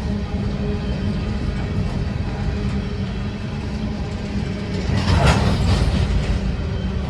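Train running, a steady low rumble with a steady hum, and a louder rushing swell about five seconds in.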